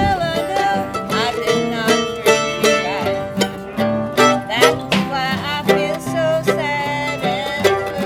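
An instrumental break of an old-time country song on acoustic string instruments: quick plucked notes over a steady strummed rhythm, with a sliding melody line on top.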